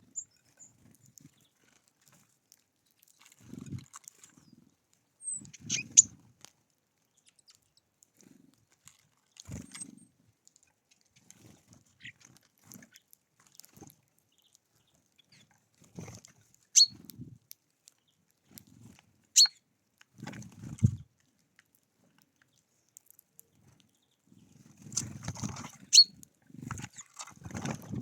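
Birds feeding at a seed feeder: scattered soft pecking and scuffling with a few sharp taps, the loudest about a quarter of the way in, twice around two-thirds of the way through and near the end.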